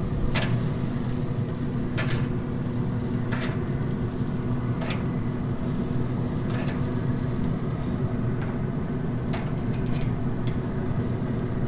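Oklahoma Joe's Rider DLX pellet grill running with a steady hum from its fan, while wings over the open-flame sear grate sizzle and crackle, with sharp pops every second or two.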